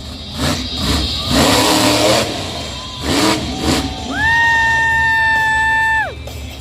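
Monster truck engines revving, rising and falling. About four seconds in, a loud steady high-pitched tone sounds for about two seconds over them, then slides down and stops.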